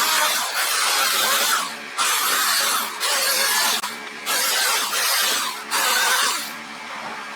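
Electric chainsaw cutting wood in four bursts of a second or two each, the saw stopping briefly between them, then dropping to a lower steady noise near the end.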